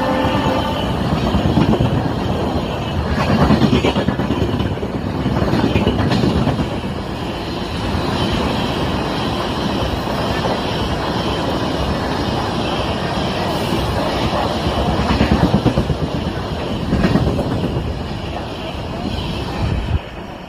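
Passenger express train passing close through the station at speed, its wheels clattering over the rail joints in repeated surges. The tail of its horn fades out in the first second, and the noise drops off near the end as the last coach goes by.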